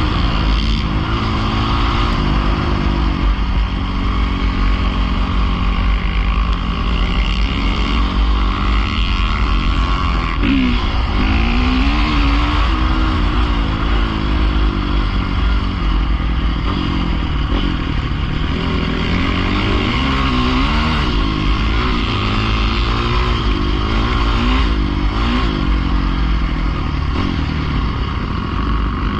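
Pit bike engines running and revving as the bikes ride, their pitch rising and falling every second or two, with more than one engine at times.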